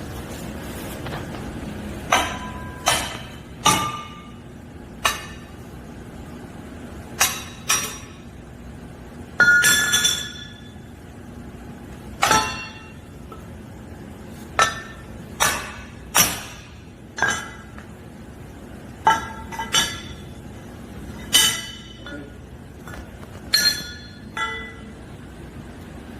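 Laser welding on an aluminum pipe: a string of sharp metallic clinks, each with a brief ring, at irregular intervals about a second apart, the longest and loudest near the middle. A faint steady machine hum runs underneath.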